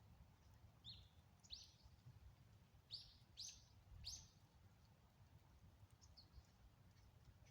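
A bird chirping: five short, quick calls that each sweep upward, between about one and four seconds in, then two fainter ones near the end, over a faint low rumble of background noise.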